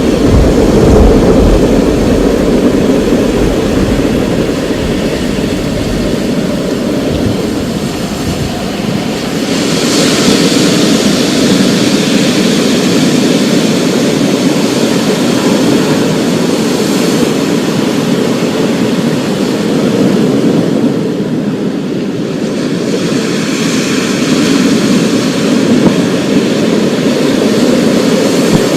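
Thunderstorm with steady heavy rain, and a low rumble of thunder that dies away over the first several seconds. About ten seconds in, the rain's hiss turns brighter for a while.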